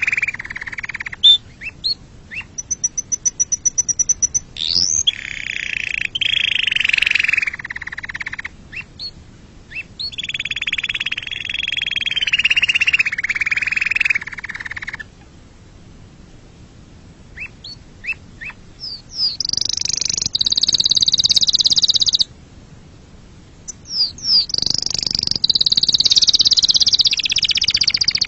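Domestic canary singing: long rolling trills and runs of quick repeated chirps, broken by short pauses, with higher-pitched trills near the end.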